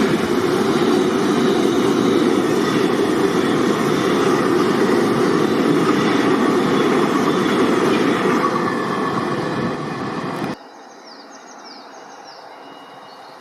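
Train passing close by with a steady rolling rumble that eases off near the end, then cuts off abruptly to a much quieter background.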